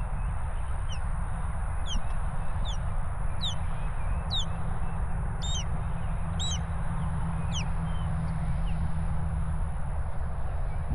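A bird calling repeatedly with short, high, sliding notes, about one a second, that stop near the end, over a steady low rumble.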